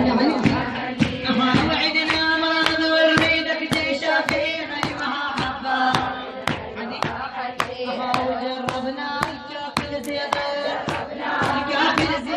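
Women chanting a mourning lament in unison, holding long sung notes, over a steady beat of hand strikes.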